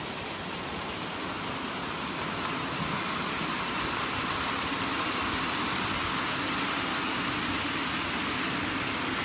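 Model train running along the track: a steady rumbling hum from its motor and wheels, getting a little louder about two seconds in.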